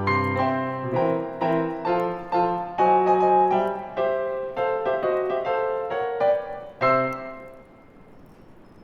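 Solo piano playing a gentle Christmas song, closing on a final chord about seven seconds in that rings out. After it only a faint hiss with a few small clicks remains.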